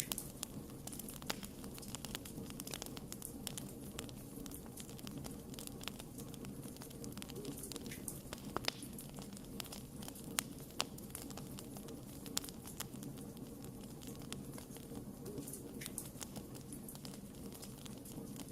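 Wood campfire burning with a steady low rush of flame and irregular sharp crackles and pops, a few louder snaps scattered through.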